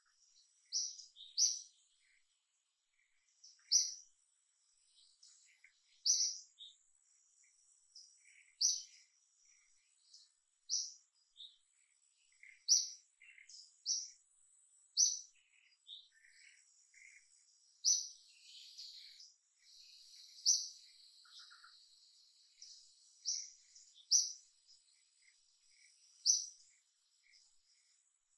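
Birds chirping: short, sharp, high chirps repeated every second or two, with fainter, lower notes in between and a faint steady high whine behind them.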